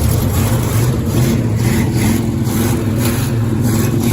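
Pontiac Bonneville's engine idling through newly fitted aftermarket exhaust pipes, a steady deep note with a slight rhythmic lope that sounds like an aftermarket cam.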